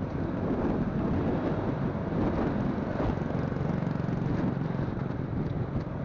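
Motorcycle engine running steadily under way, mixed with wind rushing over a phone microphone.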